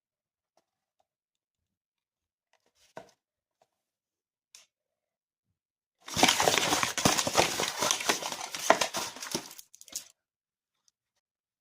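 Stiff paper crinkling and rustling for about three and a half seconds, starting about six seconds in, as a folded paper dragon puppet is handled; a few faint paper ticks come before it.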